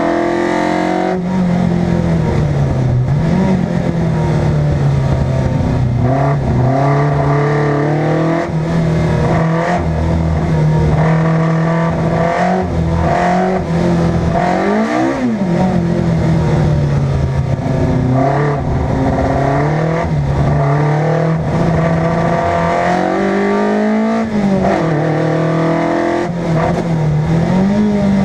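A car engine driven hard, loud and continuous. Its pitch holds steady for stretches, then climbs and drops sharply every few seconds as the revs rise and fall.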